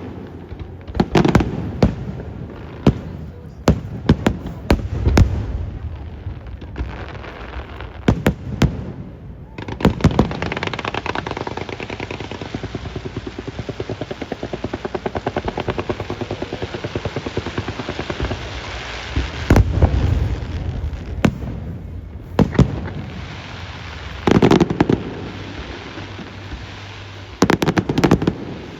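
Fireworks display: shells going off with sharp bangs and deep booms. From about a third of the way in comes a long stretch of rapid, even crackling lasting some nine seconds, then more scattered bangs and booms to the end.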